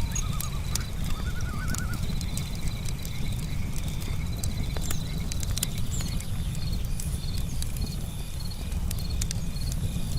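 Campfire wood crackling with scattered sharp pops over a low steady rumble, while crickets chirp in a continuous pulsed trill.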